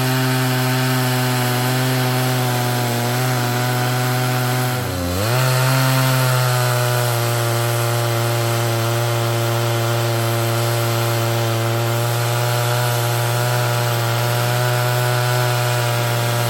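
Two-stroke chainsaw running at high revs under load, ripping a log lengthwise in an Alaskan chainsaw mill. About five seconds in, the engine speed dips sharply and comes back up as the cut loads it.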